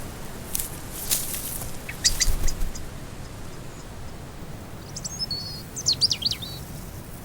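Small songbirds chirping: a few sharp chirps about two seconds in and a quick twittering phrase of rising and falling notes near the end, over a steady outdoor background hiss.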